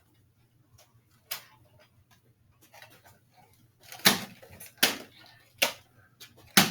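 Foam-dart blasters being primed and fired: a handful of sharp plastic clacks and thuds, irregularly spaced, louder in the second half.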